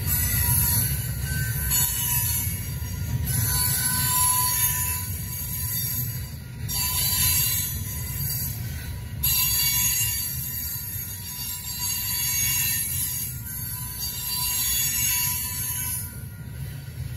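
Freight train tank cars rolling past: a steady low rumble of steel wheels on rail, with a high hissing squeal from the wheels that swells and fades every few seconds. A faint ringing from the level-crossing bell sounds under it.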